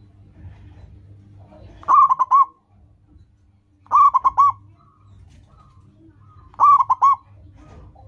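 Zebra dove cooing: three short phrases, each a quick rolling run of three or four notes, a couple of seconds apart.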